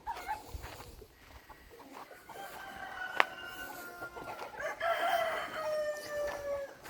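A rooster crowing: one long, drawn-out crow that starts about a third of the way in and trails off slightly lower near the end, with a single sharp click midway.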